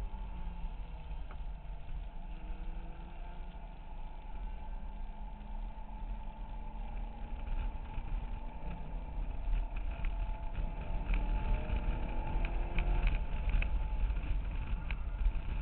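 2008 Corvette Z06's 7.0-litre LS7 V8 heard from inside the cabin while lapping a track, its pitch rising and falling as it accelerates and lifts, over a heavy low rumble. It grows louder in the second half, with a few sharp clicks near the end.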